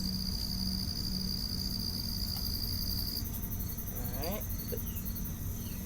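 Crickets trilling at night: one steady high trill runs for about three seconds and then stops, over fainter, higher pulsing insect song.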